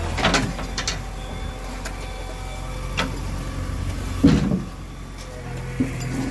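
Background noise with a steady low hum, broken by scattered short knocks and clatter, the loudest a thump about four seconds in.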